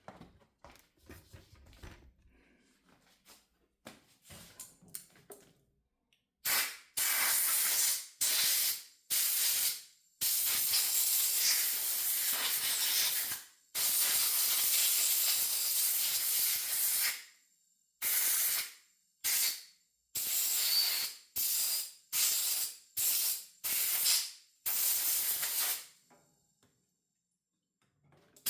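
Compressed-air blow gun blowing out ultrasonically cleaned carburetor parts. A few faint handling clicks come first, then about a dozen hissing blasts of air. Most are short, and two last three seconds or more.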